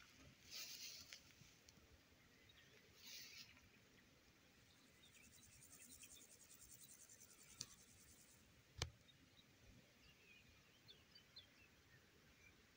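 Near silence: faint forest ambience, with an insect's fast high trill for a few seconds in the middle, a single sharp click, and a few faint bird chirps near the end.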